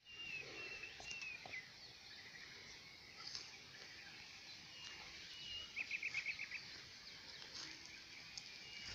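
Songbirds calling in the open air: short whistled notes here and there, with a quick run of about seven notes a little past the middle.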